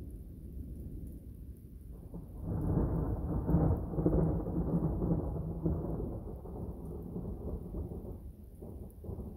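Thunder rolling: a low rumble that swells about two seconds in, peaks around four seconds, then dies away slowly, with a smaller rumble starting near the end.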